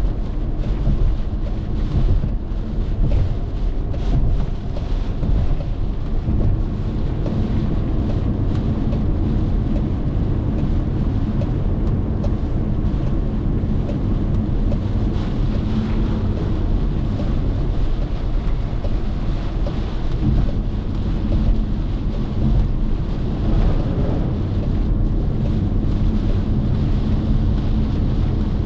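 Car driving on a wet expressway: a steady low rumble of tyres, engine and wind, with wind buffeting the microphone.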